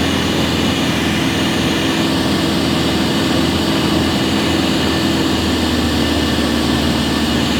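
An engine running steadily with an even low hum, holding a constant speed without revving.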